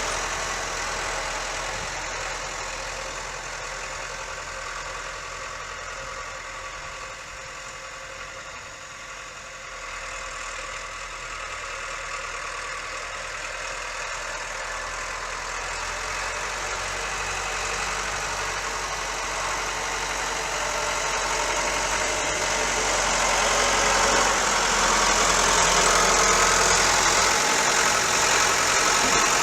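Ford 7710 diesel tractor engine running steadily while back-blading snow. It grows fainter to its quietest about nine seconds in, then louder again toward the end.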